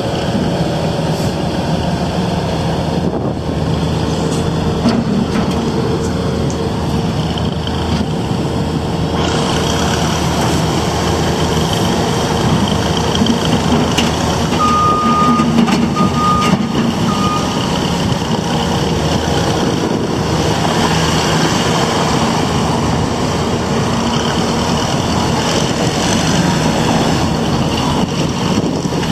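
2018 Bobcat S770 skid steer loader's diesel engine running steadily, with more high-pitched hiss and whine from about nine seconds in. About halfway through, its reversing alarm beeps three times.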